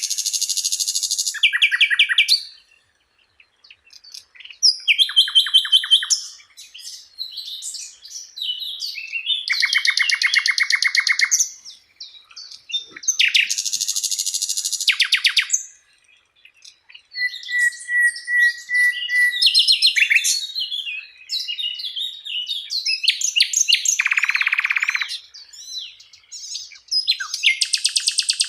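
A songbird singing a varied song of fast trills and rapidly repeated notes, in phrases a second or two long with short gaps between them.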